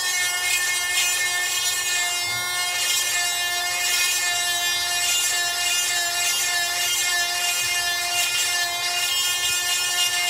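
Small electric chainsaw sharpener running steadily, its grinding wheel whining and hissing as it grinds a chain cutter.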